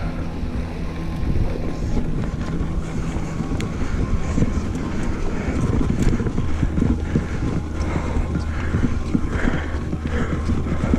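Mountain bike rolling over a dirt trail: tyres on dirt and the bike rattling over bumps in many irregular knocks, over a steady low hum and wind on the microphone.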